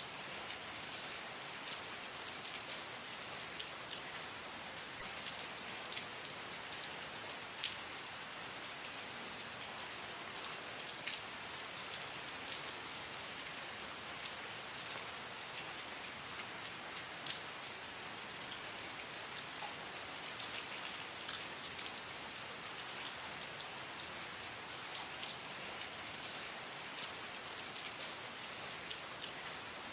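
Steady rain falling, a continuous even hiss with many small drops ticking sharply on a surface.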